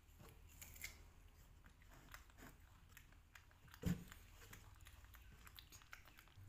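Faint chewing and biting of soft persimmon slices, a scatter of small clicks and smacks, with one dull thump about four seconds in.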